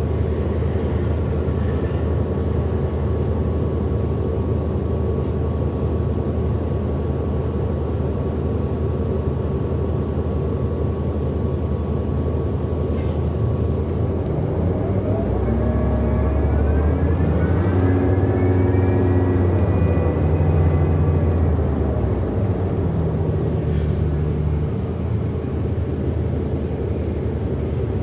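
2008 Orion NG hybrid-electric transit bus heard from on board: a steady drivetrain hum with a high whine. About halfway through, the rumble grows and the hybrid drive's motor whines rise in pitch as the bus accelerates, then ease off.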